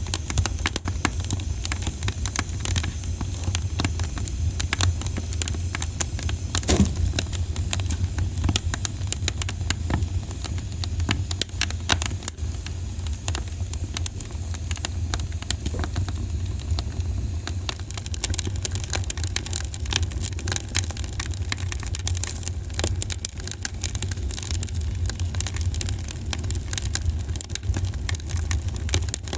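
Campfire crackling and popping, with dense irregular snaps throughout over a steady low rumble.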